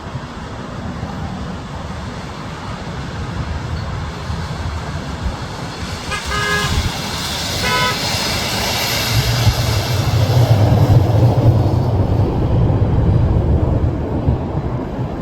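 Aircraft passing, its engine noise swelling to a peak about ten seconds in and then fading, over wind buffeting the microphone. Two short horn toots, about a second and a half apart, sound just before the peak.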